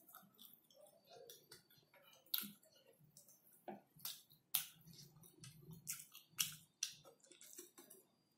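Close-up eating sounds: a person chewing with a run of irregular wet mouth clicks and smacks, several a second, louder from about two seconds in.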